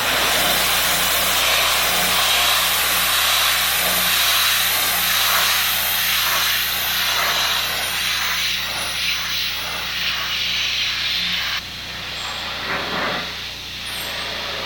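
Pressure washer spray hissing loudly against a truck's sheet-metal hood, starting suddenly and dropping off about three quarters of the way through, with a steady low hum underneath.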